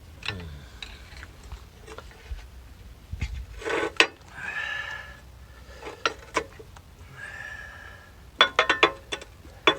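Handling noises from parts and tools being worked on: scattered clicks and knocks, a cluster of knocks near the middle, two short scrapes, and a quick rattle of clicks near the end.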